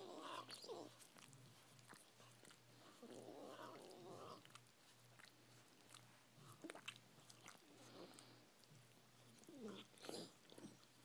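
Chihuahua licking, with wet lapping and smacking mouth sounds and a funny vocal noise it makes while it licks. There are two longer noisy sounds, one near the start and one around three to four seconds in, then scattered short smacks.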